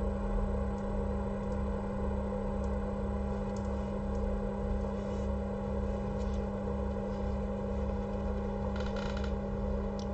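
Steady electrical hum with an even low pulsing beneath it, and a brief soft rustle near the end.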